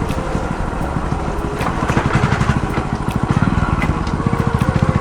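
Motorcycle engine running under way as it is ridden, its firing pulses heard close up, getting a little louder in the second half, with a few sharp knocks.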